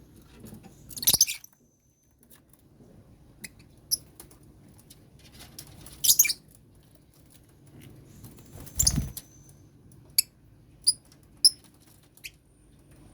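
Lovebirds calling: three loud, shrill screeching bursts spread through the clip, then a quick run of three short, high chirps near the end.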